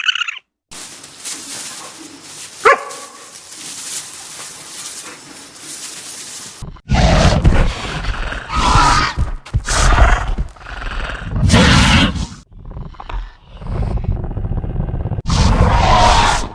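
Animal calls. A short call at the start, then several seconds of hiss with one brief cry, then a run of loud, deep calls, each about a second long, from about seven seconds in.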